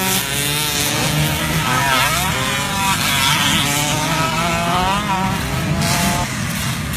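Several vintage motocross dirt bikes racing, their engines revving up and down in overlapping pitches, with sharp rises about two seconds in and again near five seconds.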